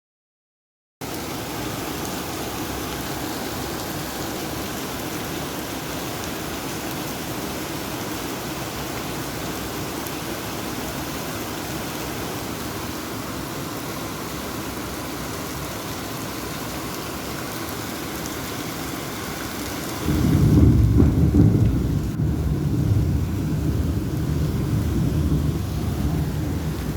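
Steady heavy rain, starting about a second in. About twenty seconds in, a loud low rumble of thunder breaks in over the rain and keeps rolling.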